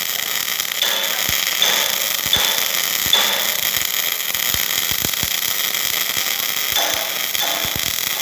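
MIG welding arc crackling steadily, with many short pops, as a weld pass is laid.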